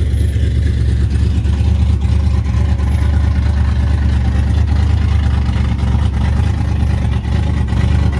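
Classic car engines running at a low idle, a loud, steady low rumble.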